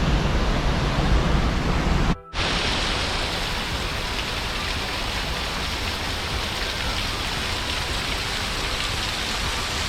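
Waterfall's rushing water: a steady, loud wash of noise with a deep rumble beneath it. The sound cuts out briefly about two seconds in and comes back hissier, with less rumble.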